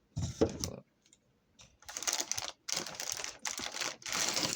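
Bags of LEGO pieces and plastic packaging handled by hand: a short bump at the start, then from about two seconds in a dense rustle of small clicks and crinkles as the pieces rattle in their bags.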